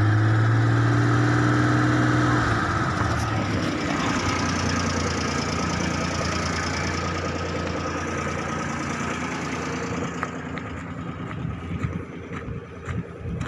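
A three-cylinder vehicle engine that burns oil, held at raised revs for about two and a half seconds, then dropping back and running steadily at idle. Scattered crunching footsteps on gravel near the end.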